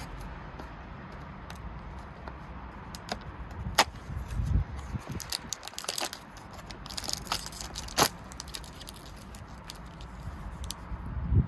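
Hands opening small packaging: sharp plastic-like clicks, two loudest about four and eight seconds in, with crinkling and rustling between, as a Kinder Surprise egg or its toy capsule is unwrapped and opened.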